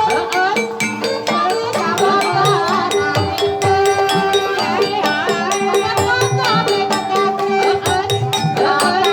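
Live Javanese gamelan music accompanying an ebeg (kuda kepang) trance dance. Fast hand-drum strokes play over steady ringing metallophone tones.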